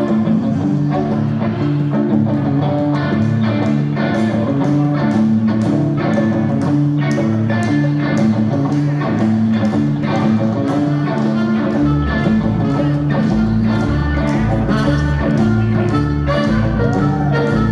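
Ska-punk band playing live: guitar and drums keep a steady beat, and a deep bass line comes in about two-thirds of the way through.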